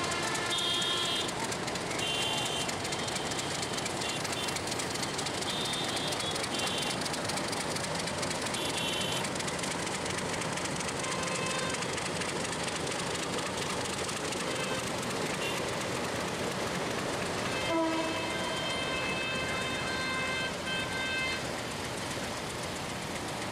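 Passenger train rolling slowly along a curving track, a steady rumbling noise from its coaches and wheels. Short high-pitched tones come and go over it, and a stronger set of tones starts suddenly about eighteen seconds in and lasts a few seconds.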